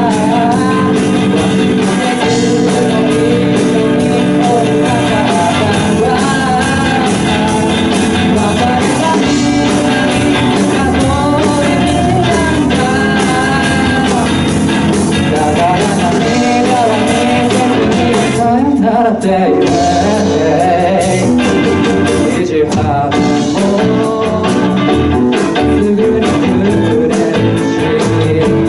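Live band performance of a pop song: a singer's voice carrying the melody over keyboard and band accompaniment.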